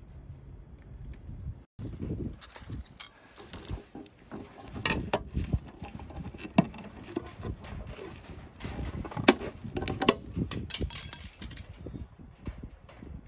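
Metal tools and parts clinking and knocking in an irregular run of sharp clicks, the handling of hand tools during work on the car.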